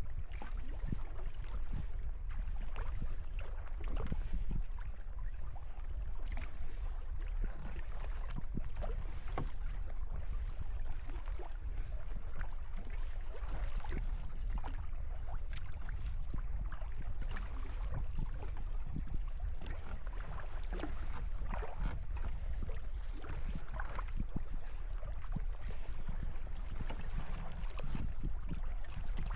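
Kayak paddling on open water: the paddle blades dip and splash and water runs off them in irregular spatters, over a steady low rumble of wind on the microphone.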